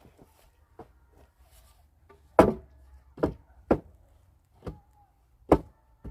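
A series of sharp knocks at irregular intervals, about seven in all, the one about two and a half seconds in the loudest.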